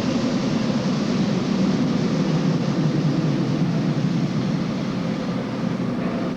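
New York City subway train running on the rails with a steady, even rolling noise.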